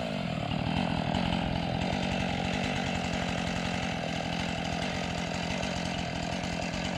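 Two-stroke chainsaw engine running at a steady high speed.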